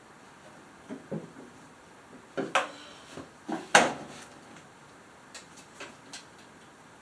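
Hand tools and hard parts being handled and set down while working on a lawnmower: a handful of separate knocks and clanks, the loudest a little past halfway, then a few light ticks.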